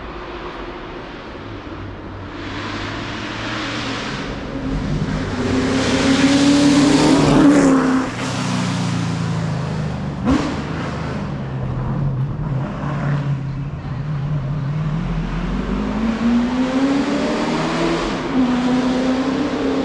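A hillclimb race car's engine revs hard as it approaches and passes close by, its note dropping as it goes past. A short sharp pop comes about ten seconds in, then the engine keeps pulling with its pitch rising again through the gears.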